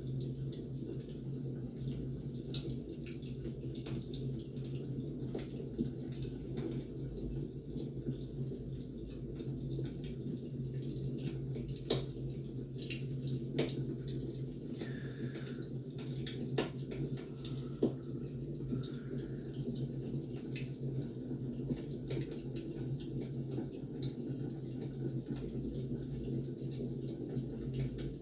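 Wood fire burning: irregular crackles and sharp pops over a steady low rumble.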